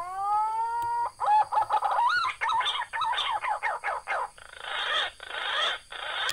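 A loud bird call: one rising, held note, then a fast run of wavering notes, then harsh rasping calls.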